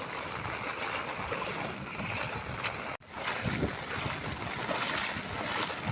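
Steady rain falling, with wind noise on the microphone; the sound drops out for an instant about three seconds in.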